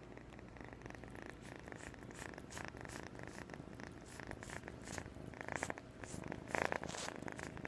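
An 8.5-week-old kitten purring steadily. Scratchy rustling joins it and grows louder in the second half, loudest about two-thirds of the way through.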